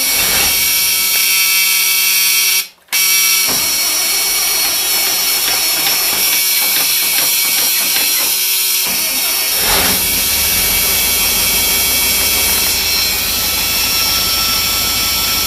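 The International Harvester SV304 V8 gasoline engine of a 1973 Loadstar bus cranked on its starter without throttle, with a steady warning buzzer sounding, and a brief dropout about three seconds in; about ten seconds in the engine catches and keeps running.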